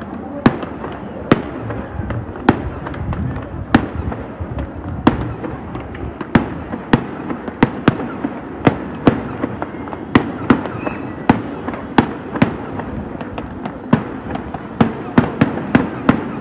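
Fireworks going off: a steady run of sharp bangs, one or two a second and coming faster near the end, over a continuous crackle and rumble.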